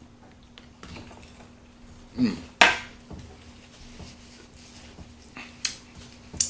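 Scattered clinks and clicks of tableware and utensils during a meal, the loudest a sharp clink about two and a half seconds in, over a faint steady hum.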